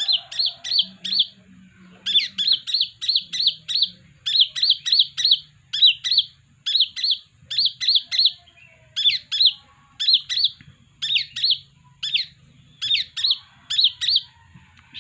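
Kolibri ninja sunbird singing: quick clusters of three to five short, high, sharp chirps, the clusters repeated about once a second.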